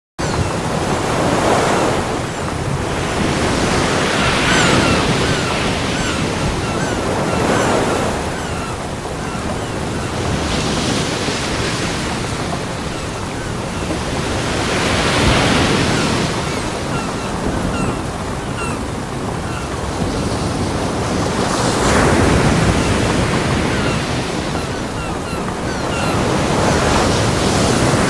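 Ocean waves breaking on a beach: a steady wash of surf that swells every few seconds as each wave comes in.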